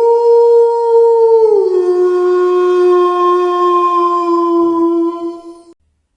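Wolf howling: one long, clear note that drops to a lower pitch about a second and a half in, holds there, and stops shortly before the end.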